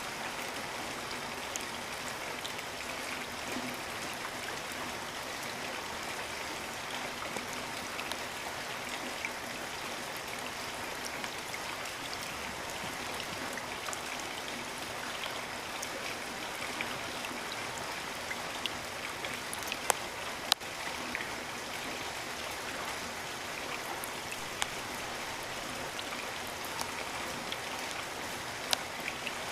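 Steady rain falling, an even hiss of drops, with now and then a single sharp tick of a drop landing close by, the loudest two about two-thirds of the way through.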